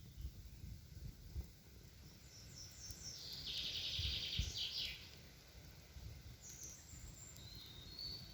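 Songbirds singing in a forest: a rapid, high trilling song about three seconds in that lasts a couple of seconds, then a few short high calls near the end, over a low, uneven rumble.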